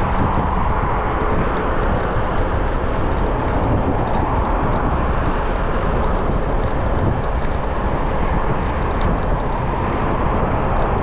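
Steady rush of wind and road noise on a microphone riding along on a moving bicycle in city traffic.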